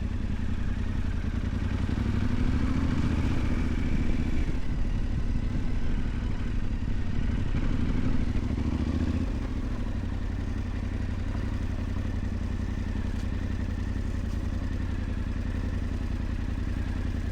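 Yamaha Ténéré 700's parallel-twin engine running steadily as the motorcycle rides along a dirt track; the engine note rises a little a few seconds in and settles slightly lower after about nine seconds.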